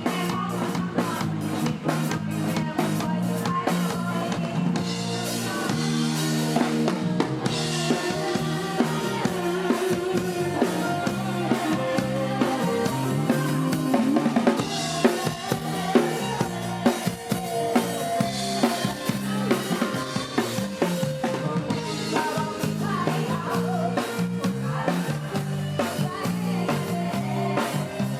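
Live band playing an instrumental passage of a luk thung song: a drum kit keeps a steady beat with snare and bass drum under bass and melody instruments, with no singing.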